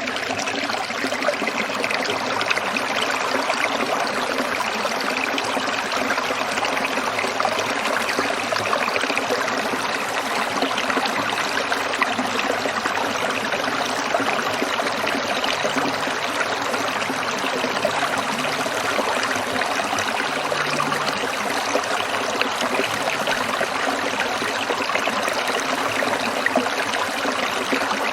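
Small stream trickling and babbling over stones, a steady, unbroken rush of water.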